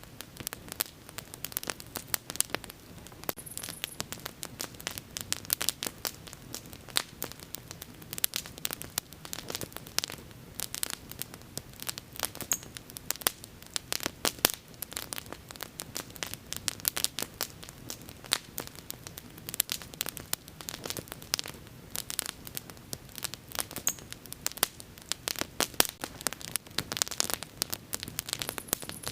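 Wood fire crackling and popping, with dense irregular snaps over a low steady hiss of burning.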